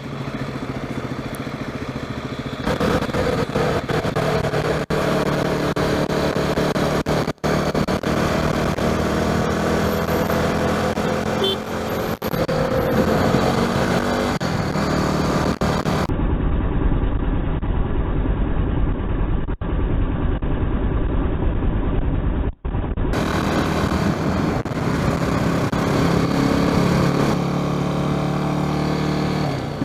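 Yamaha WR250R's single-cylinder four-stroke engine running while being ridden, its pitch rising and falling with throttle and gear changes, over wind and road noise.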